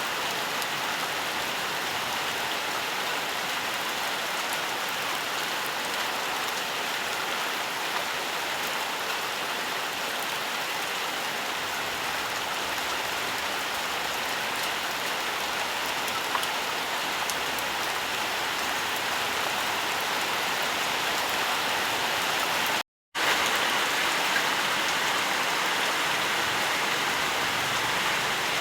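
Steady rain falling in an even hiss, with a few faint drop ticks. About 23 seconds in it cuts out completely for a split second, then comes back slightly louder.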